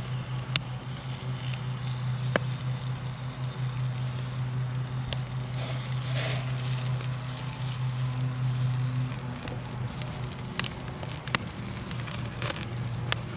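Campfire crackling with scattered sharp pops, over a steady sizzle of bacon frying in a pan on the fire. A steady low hum runs underneath and drops away briefly about nine seconds in.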